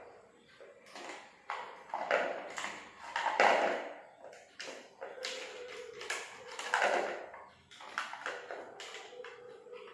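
Irregular taps and knocks, several in quick succession at times, over a faint steady hum.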